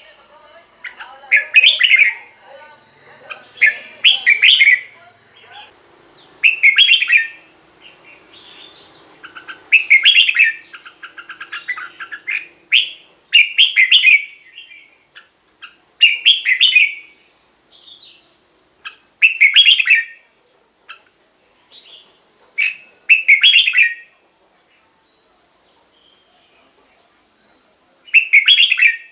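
Red-whiskered bulbul singing: short, loud, warbled phrases repeated every two to three seconds, with a silent gap of a few seconds near the end before one last phrase.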